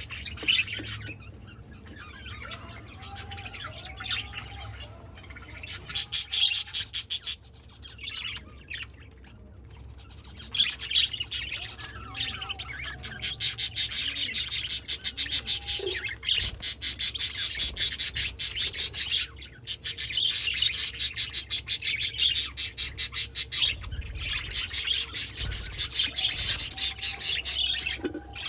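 A flock of budgerigars chattering, with rapid high chirps and warbles. The chatter comes in short spells at first and becomes a dense, nearly continuous chorus from about halfway through.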